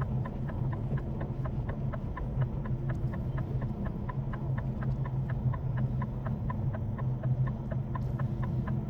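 Semi-truck diesel engine running low and steady, with a fast, even clicking over it, about four or five clicks a second.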